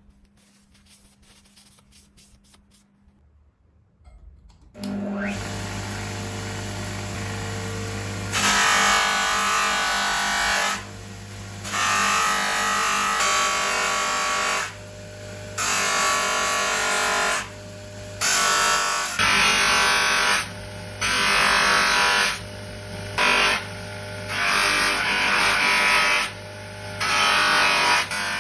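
An electric power tool, such as a grinder or sander, starts up after a few quiet seconds and runs with a steady hum. Metal is then pressed against it in repeated passes of one to two seconds each, loud rasping bursts that switch on and off while the motor keeps running.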